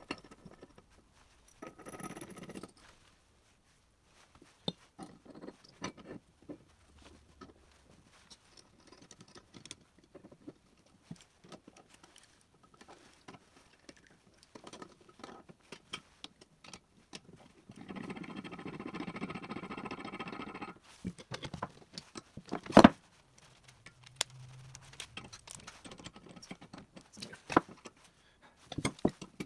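Hand tools working on metal jet-pump parts: scattered clicks, taps and scrapes, a continuous scraping noise for about three seconds, then a sharp metal knock a couple of seconds later.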